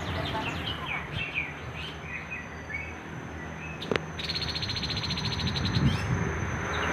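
Tepus kepala hitam, a babbler, calling in quick chirping notes for the first few seconds. A sharp click follows about midway, then a fast, even buzzing rattle.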